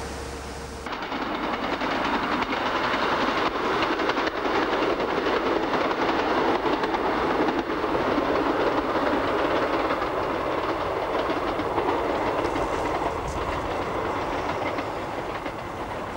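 Train running along the track, a dense steady rumble of wheels on rail that starts abruptly about a second in.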